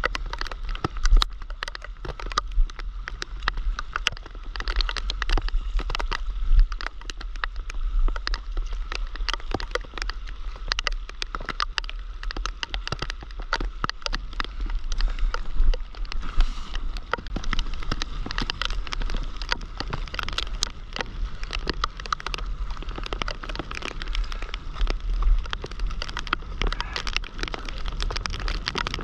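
Rain falling on the sea and striking the camera, a dense spatter of sharp drop hits over a steady hiss, with wind rumbling on the microphone.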